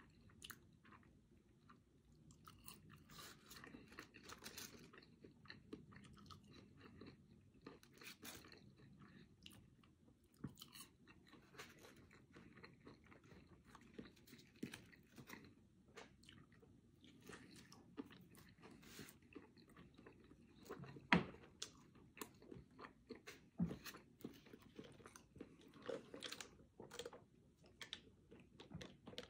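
Quiet, close-up chewing and crunching of french fries and a bacon cheeseburger, with many small mouth clicks. A few sharper clicks stand out about two-thirds of the way through.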